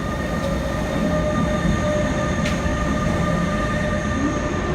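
Train running: a steady rumble with several steady whining tones above it, and a single sharp click about halfway through.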